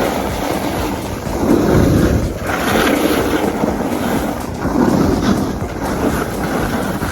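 Wind rushing over the microphone, swelling and easing a few times.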